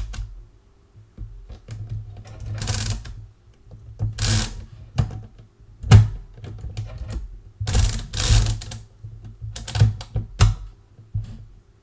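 Original Odhner pinwheel calculator being worked by hand: a string of short ratcheting whirs from the crank and gears, with separate sharp mechanical clicks. The loudest click comes about halfway through.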